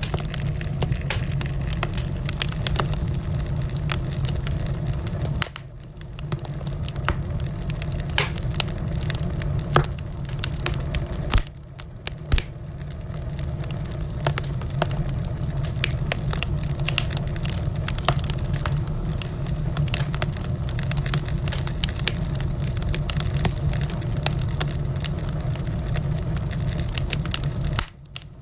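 Wood fire in a fireplace crackling, with many sharp irregular pops and snaps over a steady low rumble of the burning. The sound drops away briefly a couple of times.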